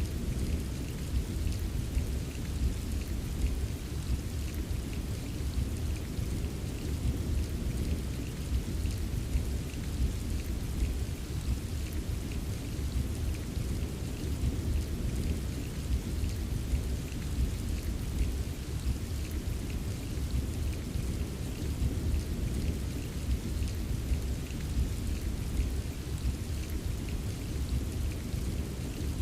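Steady rain with a fine patter of drops, over a low, continuous rumble of distant thunder. No sharp thunderclap stands out.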